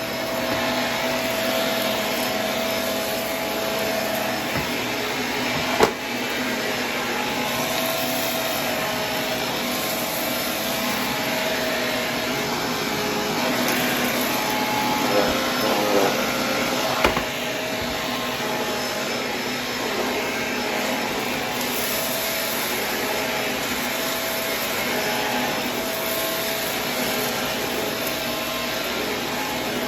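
Vacuum cleaner running steadily with a motor hum, sucking up dry debris, with sharp clicks about six seconds in and again around seventeen seconds.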